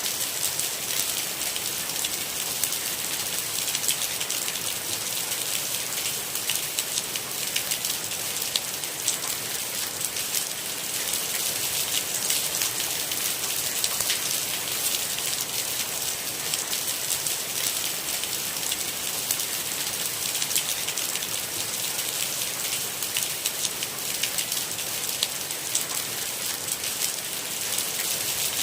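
Steady rain falling on a hard surface: a constant hiss with many small, close drop taps, unchanging throughout.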